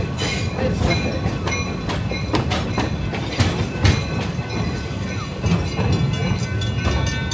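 Rail car rolling along the track with a steady low rumble and frequent clattering clicks and knocks from the wheels, with a faint thin squeal from the wheels at times.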